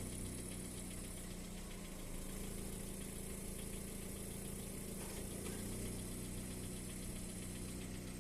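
Car engine idling steadily, a constant even hum with no revving.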